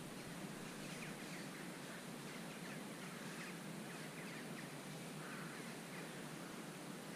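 Faint birds chirping over a steady outdoor hiss.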